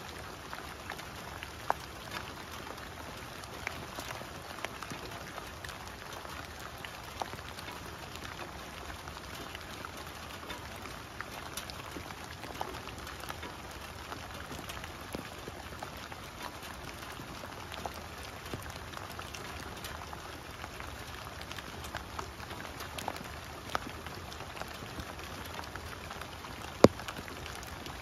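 Steady rain falling on wet leaf litter and a waterlogged lawn, with scattered individual drop taps close by. A sharp, loud tap near the end is the loudest sound.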